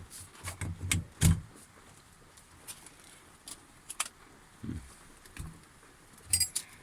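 Metal parts and hand tools handled while a new motor is fitted to a sheep-shearing machine: scattered knocks and clicks, then a short ringing metallic jingle near the end.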